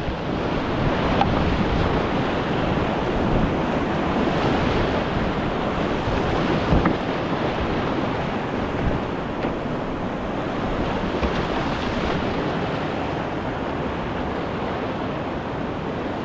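Steady rush of whitewater on a river, a continuous churning water noise without pause.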